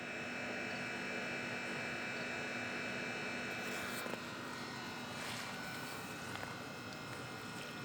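Steady electrical buzzing hum with a small click about four seconds in and a few faint ticks after it.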